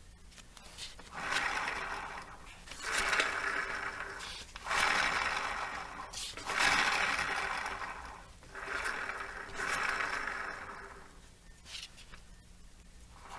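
Scooter rear wheel (Yamaha Jog-family drive) spun by hand five times, each spin rising and then dying away with a rough rumbling grind. The rumble is the abnormal noise being traced to a fault in the rear wheel assembly.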